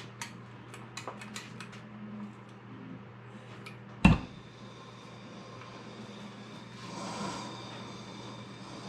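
Light clicks and taps of tools on metal, then one loud sharp knock about four seconds in. Near the end a steady mechanical hum with a faint whine starts up.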